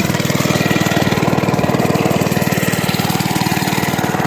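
Mini bike's small single-cylinder 80cc engine running steadily close by, its governor arm held with a paper clip and its air box removed.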